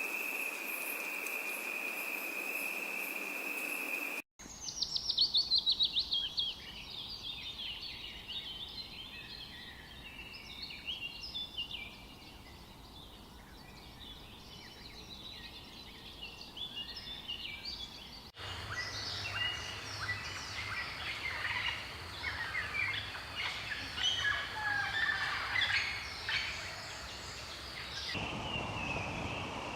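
Jungle nature recordings cut together. First a steady high insect drone, then after an abrupt cut birds calling in quick chirps and trills. About 18 seconds in, another cut brings a denser chorus of overlapping birdsong.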